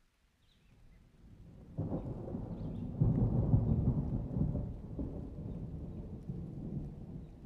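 A long, low thunder rumble that swells about two seconds in, peaks in the middle and slowly dies away.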